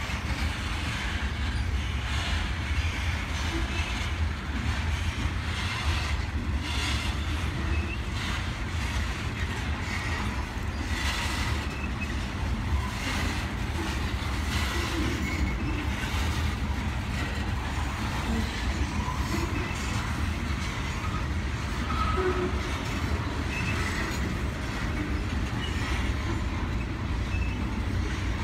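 Freight train cars rolling past at steady speed: a continuous low rumble of wheels on rail, with scattered clacks and knocks and a few brief, faint wheel squeals.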